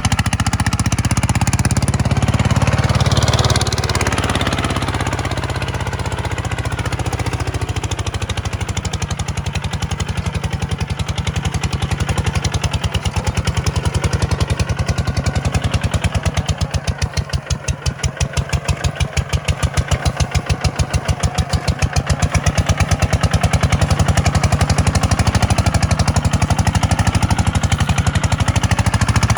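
Kubota tractor's diesel engine running steadily with a fast, even firing beat. A little past the middle it eases off for a few seconds, then picks back up.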